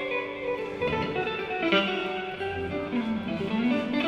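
Guitar played loosely, picking single notes and chords that ring on and change every half second or so.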